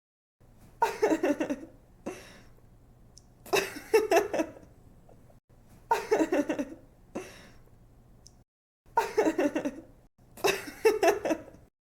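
Young woman laughing and giggling in about five short bursts of quick "ha-ha" pulses, a faint steady low hum between them.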